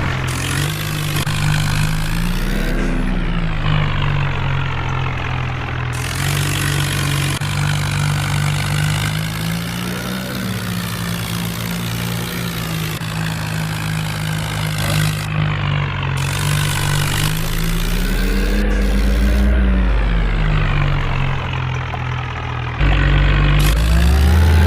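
Tractor diesel engine running steadily. Its pitch rises and falls twice as the revs go up and down, and it steps up louder near the end.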